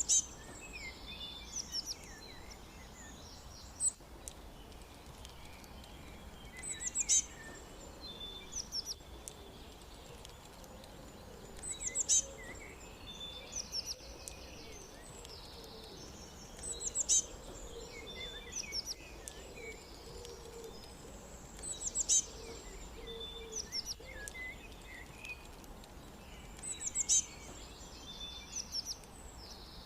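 Songbirds chirping and twittering, short high calls in clusters that return about every five seconds, over a steady background hiss.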